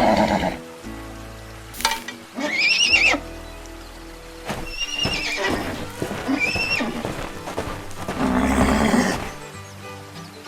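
Cartoon background music with three short, high-pitched animal calls about two and a half, five and six and a half seconds in, the first the loudest.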